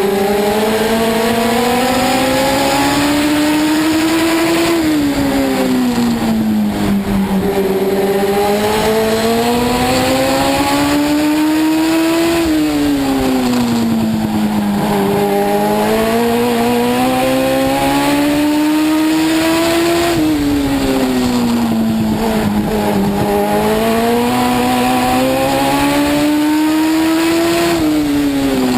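Legend car's Yamaha four-cylinder motorcycle engine racing round a short oval, heard from the cockpit. Four times its pitch climbs steadily up a straight, then falls sharply as the driver lifts for the turn.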